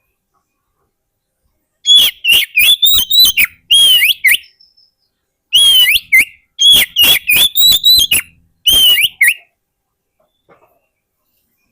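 Oriental magpie-robin (kacer) singing: two phrases of rapid, sliding whistled notes with sharp clicks, the first about two seconds long and the second about three and a half, split by a short pause.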